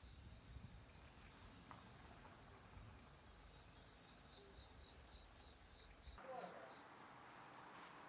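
Faint insects, crickets by their sound, chirping: a steady high trill with a second call pulsing about four times a second. Low background rumble drops out about six seconds in.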